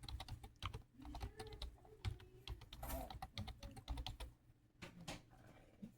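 A run of quick, irregular clicks and taps, like keys being typed, over a steady low hum.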